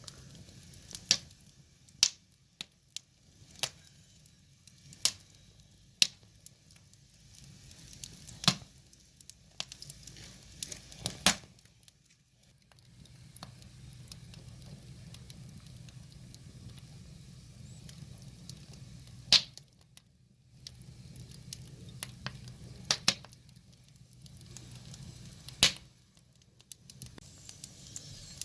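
Wood fire crackling, with sharp pops at irregular intervals over a faint low rumble.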